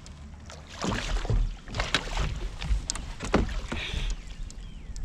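Knocks, thumps and splashing on a plastic fishing kayak as a thrashing fish is handled aboard. The sharp clatters begin about a second in and keep coming irregularly.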